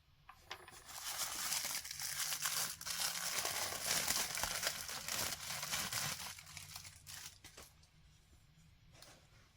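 Plastic and paper packaging of a boxed polystone statue being handled, crinkling and rustling densely for about six seconds, then dying down to a few scattered rustles and clicks near the end.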